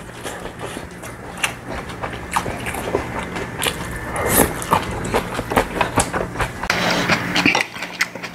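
Close-miked chewing of food, with moist smacking and crunching, and chopsticks clicking against ceramic dishes, in short irregular bursts that grow busier near the end. A faint steady low hum runs underneath.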